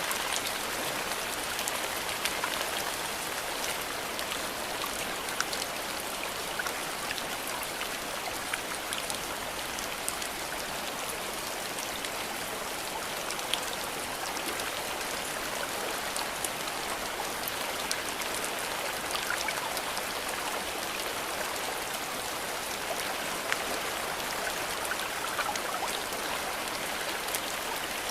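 Steady rainfall: an even hiss with scattered sharp ticks of individual drops.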